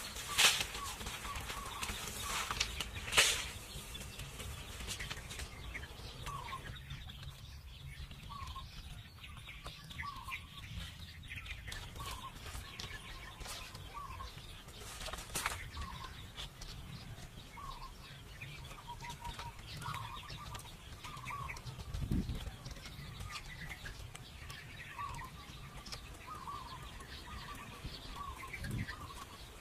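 A bird calling over and over with short chirps, roughly one a second. A few sharp knocks come near the start and about halfway through, and a couple of low thuds come later.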